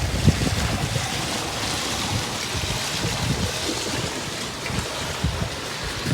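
Steady rush of sea water around a sailboat under way, with wind gusting on the microphone in uneven low buffets.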